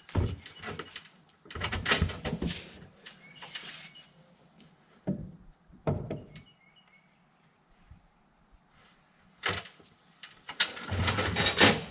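Irregular knocks and clunks in short clusters, with quiet gaps between and a dense run of them near the end.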